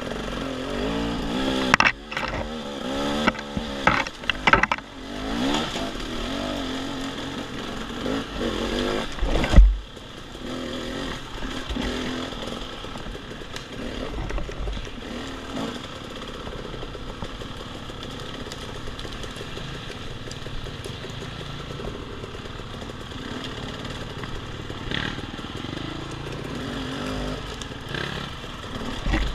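Off-road dirt bike engine running and revving unevenly on a woods trail, with several sharp knocks and clatters in the first few seconds and one loud thump about ten seconds in, then running steadier and quieter.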